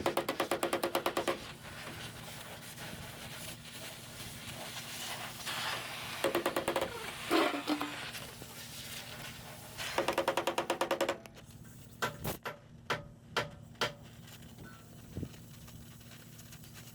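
A workshop power tool running in short bursts of rapid, even tapping, about a dozen strokes a second. Three bursts come, at the start, about six seconds in and about ten seconds in, with a few separate sharp knocks near the end.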